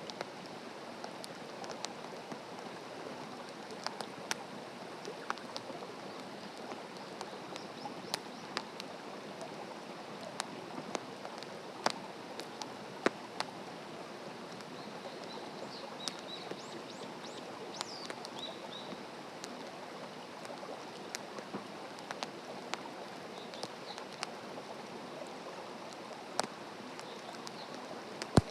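Open wood campfire crackling: a steady hiss with irregular sharp pops from the burning wood, the loudest pop near the end. Small birds chirp faintly about halfway through.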